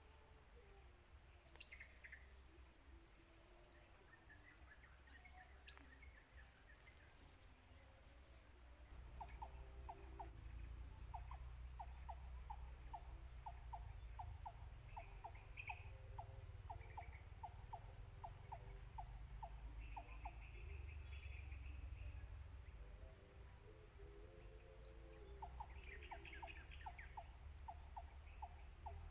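Steady, high-pitched trilling of crickets or other insects, with a rhythmic ticking call about twice a second through the middle and again near the end, and a few short chirps.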